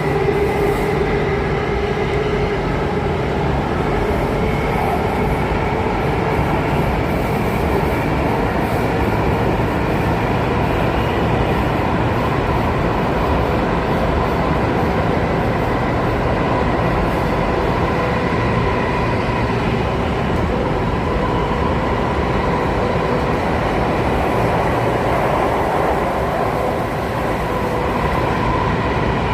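Alstom Metropolis C830 metro train running between stations, heard from inside the passenger car: a steady running noise of the wheels and running gear, with faint steady tones.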